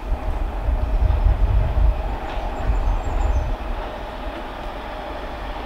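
London Underground S7 Stock District line train approaching in the distance, a steady low rumble with a faint even hum.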